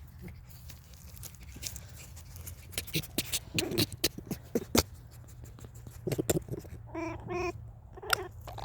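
A pet animal begging: a run of sharp clicks and taps, then two short whining calls about seven seconds in and one more near the end.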